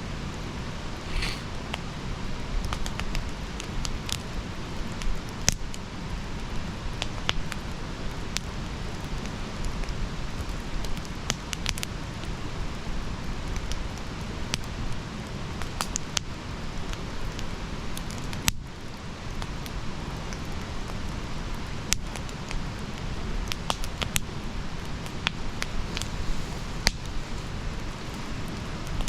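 Wood campfire burning: a steady low rush of flame with scattered sharp crackles and pops of burning wood.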